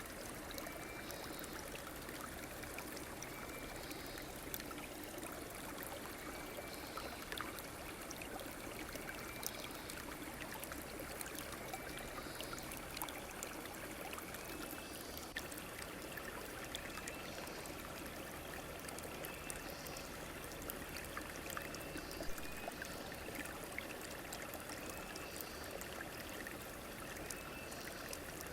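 River stream flowing steadily, a continuous even rush of water, with a faint short call repeating every second or two above it.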